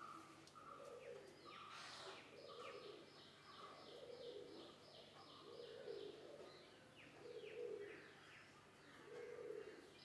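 Faint background birdsong: one bird gives low notes repeated about once a second, while others call higher, one in a fast run of high notes, about four a second, through the first half.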